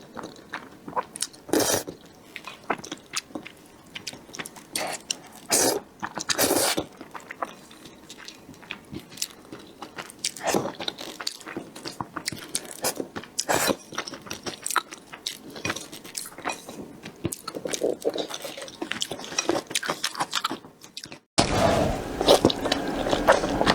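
Close-miked eating of noodles: wet chewing and mouth clicks, with an occasional louder bite. Near the end the sound cuts out for a moment and comes back louder and busier.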